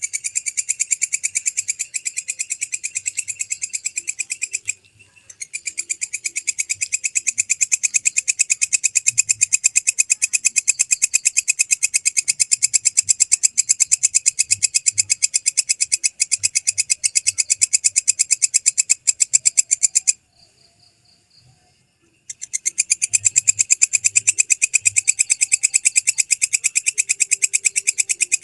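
Belalang kecek (walang kecek) katydid stridulating: a loud, shrill, rapid pulsing trill, broken by a short pause about five seconds in and a longer pause of about two seconds near twenty seconds in before starting up again.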